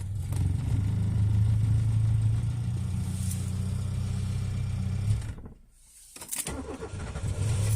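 1987 Peugeot 205 1.4 GR's carburetted X-type (Douvrin) four-cylinder engine running just after a cold start, after three months standing and without full choke. It runs a little harder for the first couple of seconds, then steadily. About five and a half seconds in, the sound briefly cuts out almost to nothing, then comes back and runs on.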